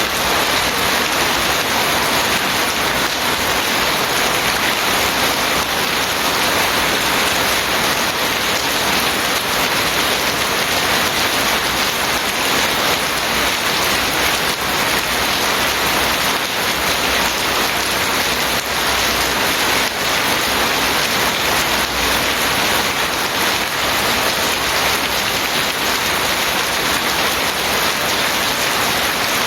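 Steady, heavy rain falling, a dense even hiss of drops on surfaces.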